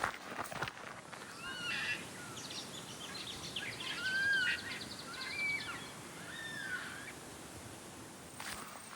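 Wild birds calling: several swooping whistled notes and a quick chattering run of notes between about one and seven seconds in, over a steady background hiss.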